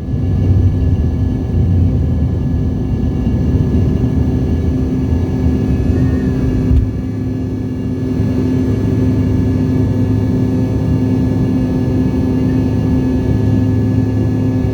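Airliner jet engines running at takeoff power: a steady loud hum over a low rumble, dipping briefly about seven seconds in.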